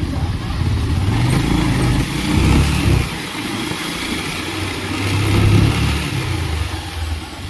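Bajaj Pulsar 220 single-cylinder motorcycle engine running while riding. It swells louder under throttle about two and a half seconds in and again around five and a half seconds in.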